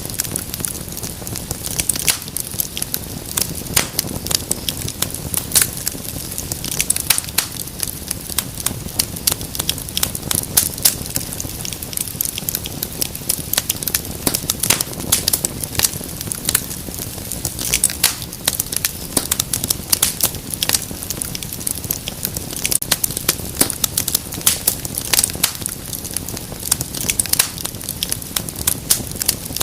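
Wood fire crackling in a fireplace: a dense, irregular stream of sharp pops and snaps over a low, steady rumble of burning.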